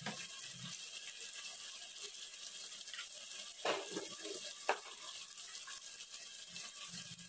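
Curry masala of tomatoes, onions and ginger-garlic paste sizzling steadily in oil in a pan, with a couple of short knocks around the middle.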